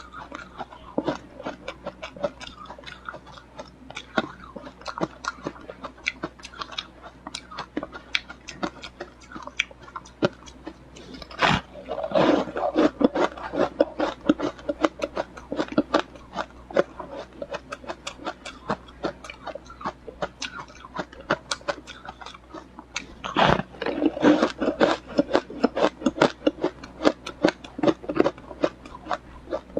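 Ice being bitten and chewed close to the microphone: a steady run of crisp crunches, with two loud sharp bites, one about a third of the way in and one about two-thirds in, each followed by a stretch of heavier crunching.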